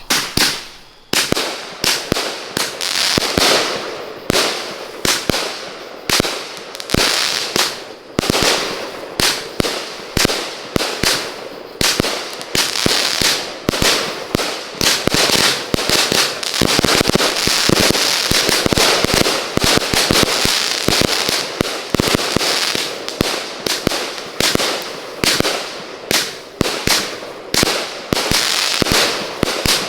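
A 100-shot color-and-salute fireworks cake firing shot after shot, about one to two bangs a second, with a hiss and crackle between the reports.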